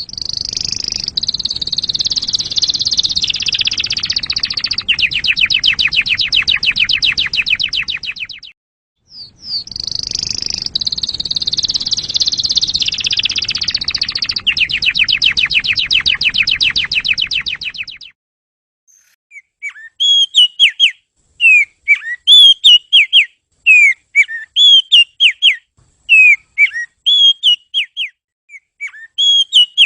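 Songbird song: two long bouts of rapid, high twittering, each about eight seconds and ending in a very fast trill, then from about two-thirds of the way in a string of short, sharp chirping whistles.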